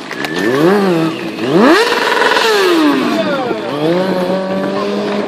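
Stunt motorcycle's engine revved: a short blip, then a sharp climb held at high revs for about a second, falling back and settling into a steady lower running note.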